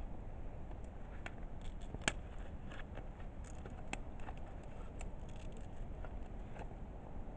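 Firewood burning in a kamado cooking hearth, crackling with irregular small pops, one sharper pop about two seconds in.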